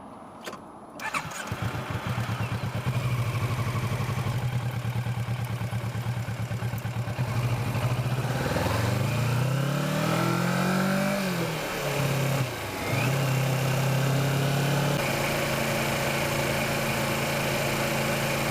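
Kawasaki Versys motorcycle engine starting about a second in and idling with a steady pulse. It then revs up and down a few times as the bike pulls away through the gears, and settles into steady running.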